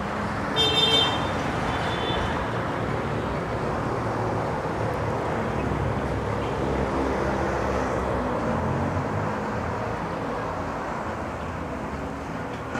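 Steady road traffic noise with no single vehicle standing out. A brief high-pitched tone sounds about half a second in.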